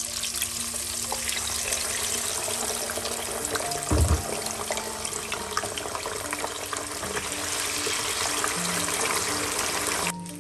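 Cubes of tofu sizzling and crackling in hot oil in a wok, starting as they are dropped in, with a low thump about four seconds in.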